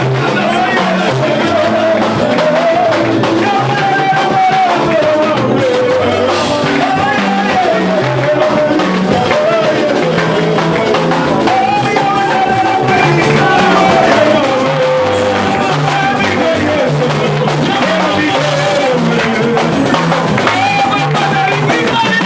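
Church worship music: a lead voice singing a gliding melody over a band, with a steady, repeating bass line underneath.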